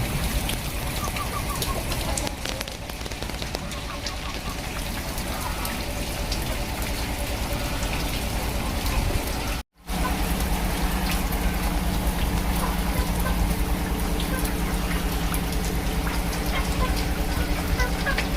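Heavy rain falling steadily, with many individual drops striking surfaces. The sound cuts out for a moment about ten seconds in, then resumes.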